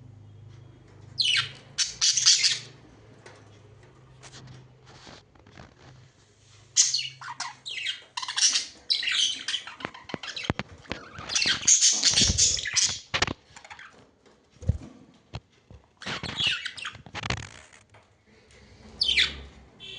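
Pet budgerigars chirping and squawking in short bursts of high, scratchy calls, with quieter gaps between the bursts.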